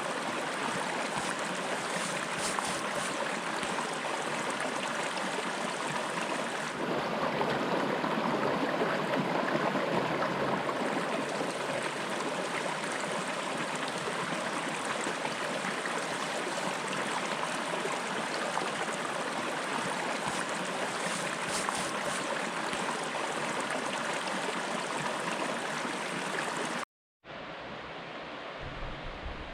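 Steady rush of flowing stream water running over rocks. The water sound shifts slightly about a quarter of the way through, breaks off briefly near the end, and then resumes quieter.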